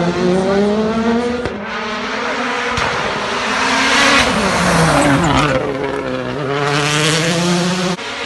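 Rally car engine driven hard, its pitch rising and falling through gear changes and lifts, with loud rushing noise in the middle and near the end.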